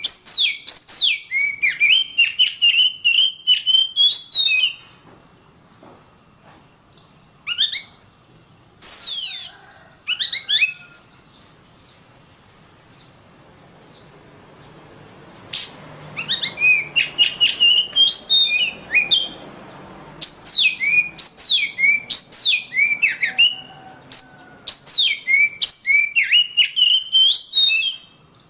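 Oriental magpie-robin (kacer) singing: loud bursts of rapid, repeated whistled notes, each sliding down in pitch, lasting a few seconds each. A long quieter stretch with only a few short calls comes about five seconds in, before the full song resumes about halfway through.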